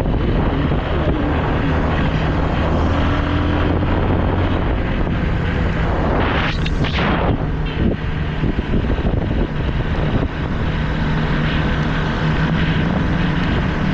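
Single-cylinder engine of a Yamaha Lander 250 motorcycle running steadily while riding, with wind buffeting the microphone. About six seconds in, another vehicle rushes past for a second or so, and the engine note sits higher in the second half.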